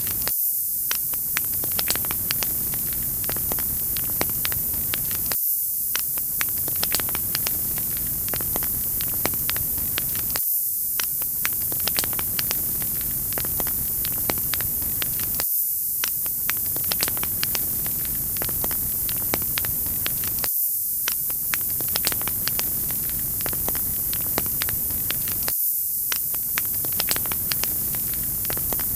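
Wood fire crackling: many small sharp pops and crackles over a steady high hiss, the same short stretch repeating about every five seconds.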